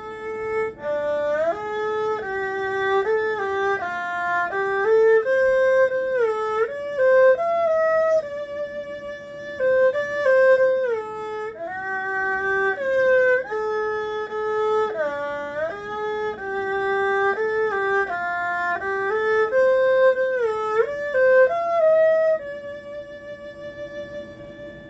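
Erhu playing a slow solo melody, sliding between notes, closing on a long held note that fades out near the end.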